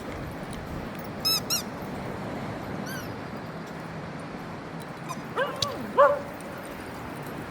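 Cavalier King Charles Spaniels yipping and whining in short, high-pitched yelps: two quick ones a little over a second in and a fainter one at three seconds, then two lower, louder yelps around five and six seconds in, over a steady low rumble.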